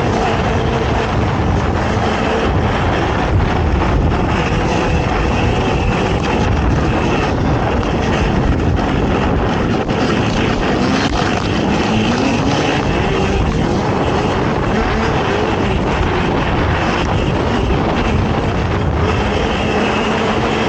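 Racing ATV engine running hard over a steady wash of wind and terrain noise, its pitch shifting with the throttle and rising briefly about halfway through.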